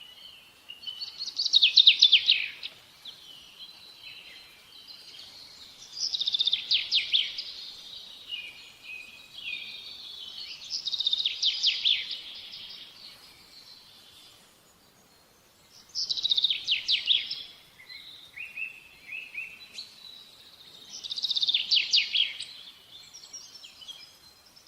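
A songbird singing the same loud phrase about every five seconds, each a quick run of falling notes lasting a second or so, with softer chirps in between.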